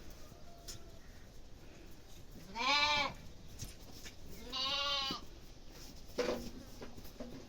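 Goat bleating: two long, wavering bleats about two seconds apart, then a shorter, lower call near the end.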